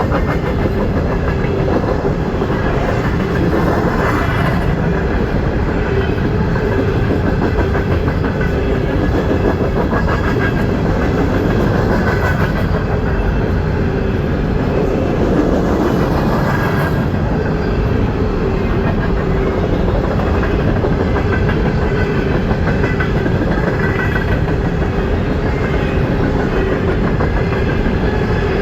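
Norfolk Southern freight train rolling past steadily, its wheels running over the rails.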